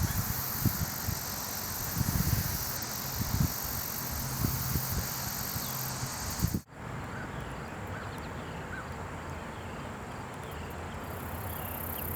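Outdoor ambience: a steady hiss with wind buffeting the microphone in low thumps, then an abrupt cut a little past halfway to a calmer steady hiss with faint short high chirps.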